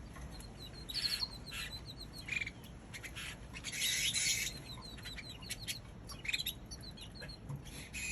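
Canary chirping: scattered short, high calls, with a brief scratchy rustle about four seconds in.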